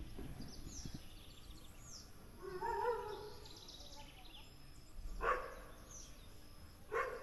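Quiet outdoor village ambience with small birds chirping high up throughout. About two and a half seconds in comes a louder distant call lasting under a second, and there are brief faint sounds near five and seven seconds.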